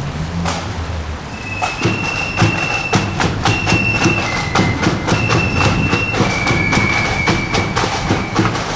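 Marching flute band playing a slow tune, with high flutes holding long notes over a steady drum beat. The flutes come in about a second and a half in; the drums beat throughout.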